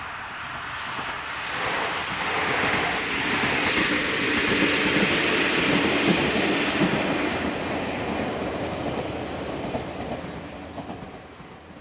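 Two-car orange local train passing by: its running noise rises, is loudest midway, then fades away.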